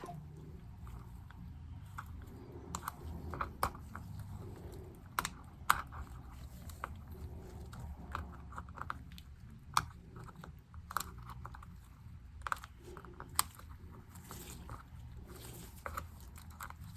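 MacBook keycaps being pried off their clips: small, sharp plastic clicks and snaps at irregular intervals, over a faint low hum.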